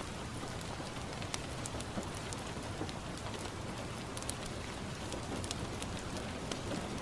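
Steady rain falling on a window, mixed with the scattered sharp pops of a crackling wood fire.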